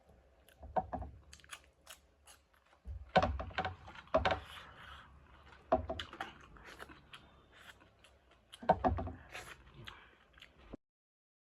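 Close-miked mukbang eating: chewing and crunching food, with several louder bursts of bites and crunches among wet clicks. The sound cuts off suddenly near the end.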